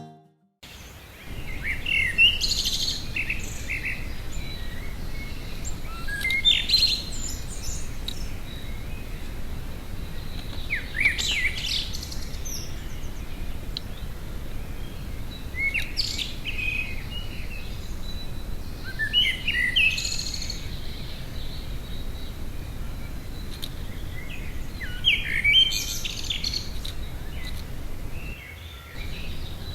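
A songbird singing short, varied phrases, one every four to five seconds, over a steady low background rumble.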